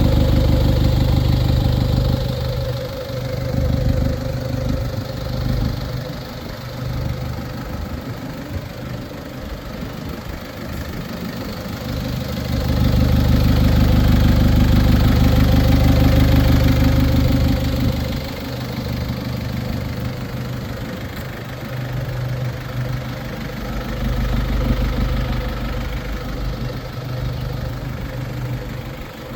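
IVECO Eurocargo 80E12 truck's diesel engine idling steadily at an even pitch. It is louder for the first couple of seconds and again for about five seconds in the middle.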